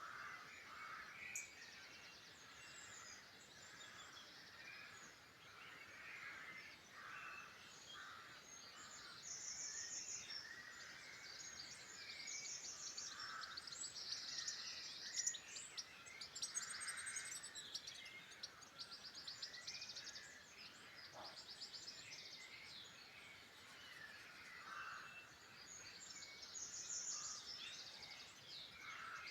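Several songbirds singing at once, a busy chorus of overlapping chirps, quick trills and whistles, heard faintly over a soft background hiss.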